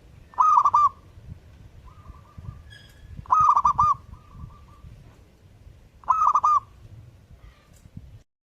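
Zebra dove (perkutut) cooing: three loud phrases about three seconds apart, each a quick run of three or four rolling notes, with softer trailing coos between them.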